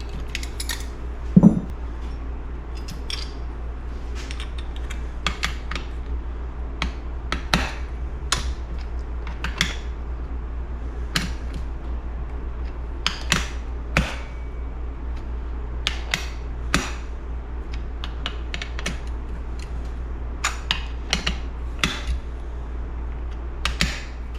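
Hand tools and small metal parts clicking and clinking on a motorcycle engine's clutch, dozens of separate sharp clicks with a louder knock about a second and a half in, over a steady low hum.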